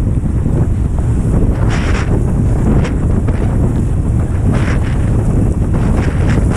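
Strong wind buffeting the microphone, a dense steady low rumble, with brief hissing bursts about two seconds and four and a half seconds in.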